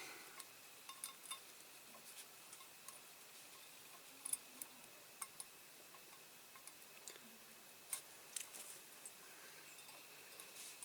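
Near silence broken by scattered faint clicks and taps: tweezers and a small metal hinge pin against a diecast model's door.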